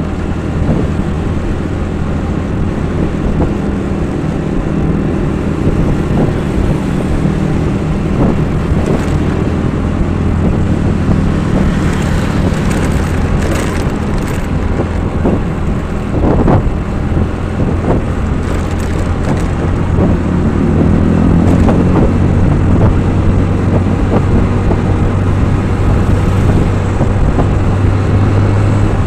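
A road vehicle's engine running steadily on the move, a continuous low hum under road and wind noise. It grows a little louder about two-thirds of the way through.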